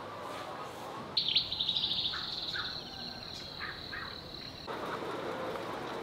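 A high-pitched bird call about a second in: a fast trill that runs into a steady high whistle, then cuts off suddenly after about three and a half seconds, over steady background noise.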